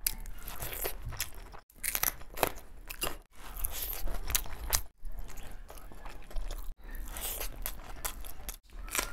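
Close-miked eating sounds of a person chewing mouthfuls of biryani eaten by hand, with sharp wet clicks and smacks. The sound comes in short snippets that break off abruptly about every two seconds.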